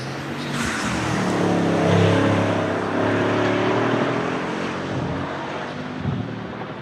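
Bugatti Chiron's quad-turbo W16 engine as the car drives past, the engine note swelling to its loudest about two seconds in and then fading away.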